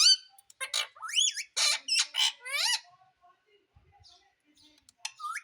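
Indian ringneck parakeet squawking, a string of shrill calls that rise and fall in pitch over the first three seconds, then a pause and another rising call right at the end.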